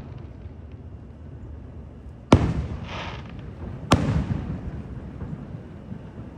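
Aerial fireworks shells bursting: two loud booms about one and a half seconds apart, each trailing off in a rumbling echo, with a brief hiss after the first.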